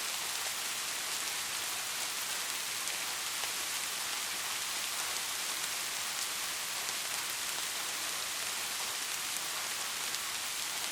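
Steady rain falling: an even, continuous hiss with many small drop ticks through it.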